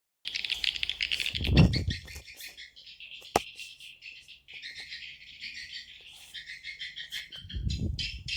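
Swiftlets twittering and chirping in a dense, continuous chatter, the call sound used to lure swiftlets into nesting houses. Two brief low rumbles break in, the first about a second and a half in and the second near the end, with a single sharp click a little before the middle.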